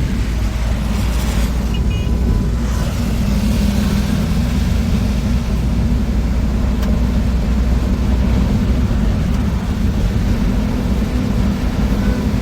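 Moving bus heard from inside: a steady low engine and road rumble, with a brief louder hiss-like swell about a second or two in.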